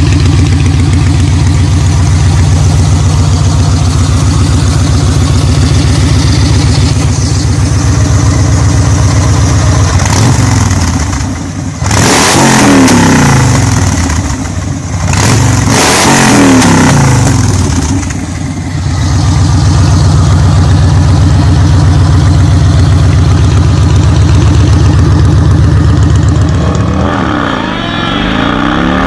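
Cruiser motorcycle engine running steadily, revved up and down several times from about ten seconds in, then settling back to a steady run before another rev near the end.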